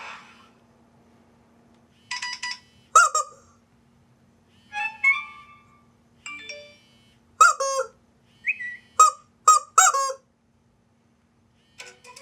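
iPhone ringtone playing: short, squeaky, honking notes, some gliding in pitch, in irregular clusters after a short pause.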